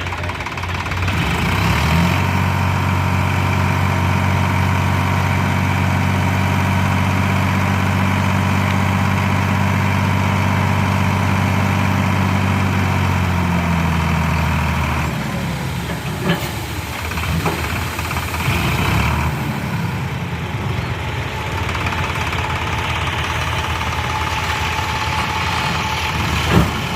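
Heavy diesel engine running steadily. A deeper, steady engine note comes in about two seconds in and dies away around halfway through, followed by a few sharp knocks.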